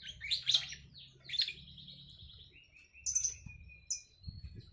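Small birds chirping and calling: a quick run of loud chirps in the first second and a half, a lower trilling call in the middle, then two sharp high chirps near the end.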